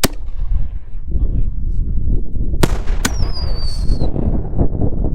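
Aerial firework shells going off: a sharp bang at the start, then two more sharp bangs about half a second apart nearly three seconds in. A thin, falling whistle trails the second of those bangs for about a second.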